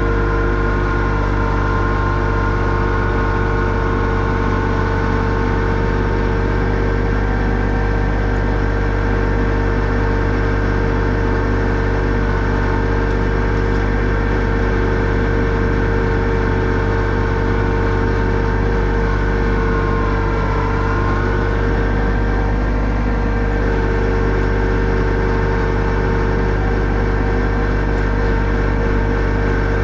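Yanmar SA324 compact tractor's three-cylinder diesel engine running steadily, with its pitch sagging briefly about twenty seconds in as it takes a load.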